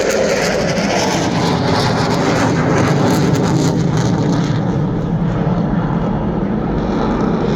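Loud, steady jet noise of an F-16 Fighting Falcon fighter flying past at high power.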